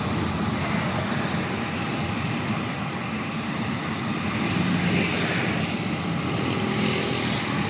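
Airplane engines running steadily: a broad, even noise that holds its level, with a faint low hum coming and going.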